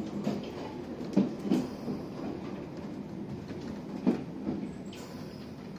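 London Underground Piccadilly line carriage running, heard from inside: a steady rumble with the wheels knocking over rail joints, sharpest about a second in and again about four seconds in.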